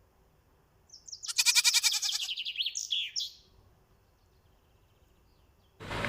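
A bird's rapid trilled call lasting about two seconds, ending in a few short gliding notes. A dense burst of noise starts just before the end.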